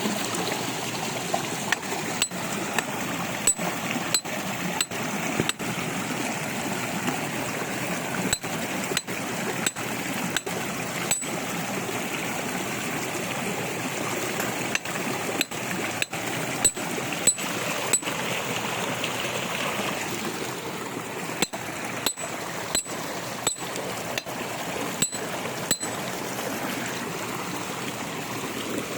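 Water rushing and trickling steadily, with repeated sharp hammer blows that come in several runs of regularly spaced strikes.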